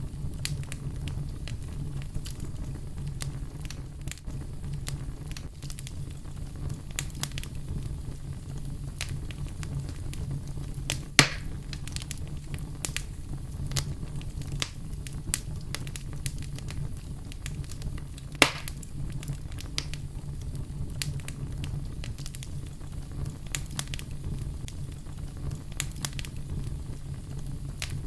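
Wood fire crackling over a steady low rumble of flames, with frequent small crackles and two loud sharp pops, one a little before the middle and one about two-thirds of the way through.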